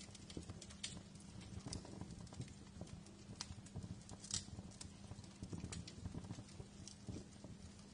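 Wood fire crackling in a fireplace: irregular sharp pops and snaps over a low, steady rumble, with one louder pop a little past the middle.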